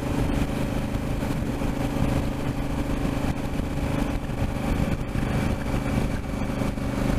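Motorcycle engine running at a steady speed, with the rush of wind and road noise while riding.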